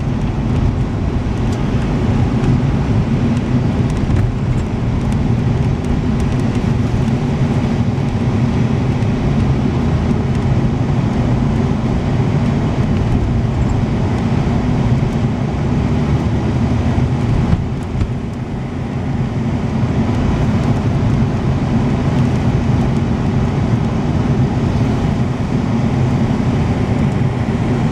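Motor vehicle driving: steady engine and road rumble, dipping briefly about two-thirds of the way through.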